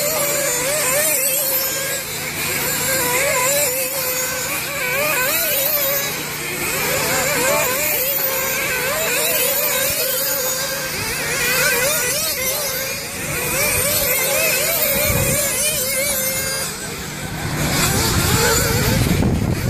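Several nitro RC buggies racing together, their small glow-fuel two-stroke engines making a high-pitched whine that keeps rising and falling as the drivers work the throttle.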